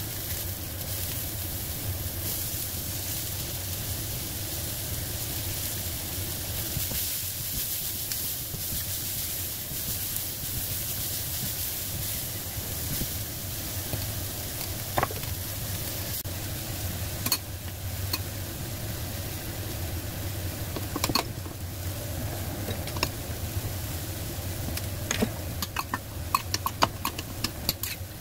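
Shallots, onion and garlic sizzling in oil in a wok while being stirred with a silicone spatula: a steady hiss over a low hum. Scattered clicks and taps of utensils come more often near the end.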